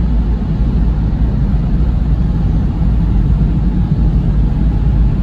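PDQ Laserwash 360 onboard dryer blowers running, a loud, steady rush of air heard from inside the car during the wash's drying stage.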